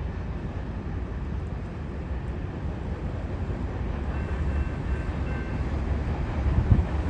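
Freight train cars rolling past at track speed: a steady low rumble of wheels on rail, with faint thin squeals about four to five seconds in and the noise growing slightly louder toward the end.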